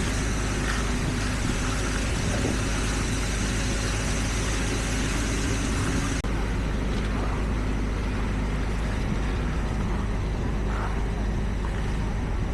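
Heavy construction machinery running steadily, a diesel engine hum with no break. About six seconds in the sound changes abruptly and loses much of its hiss.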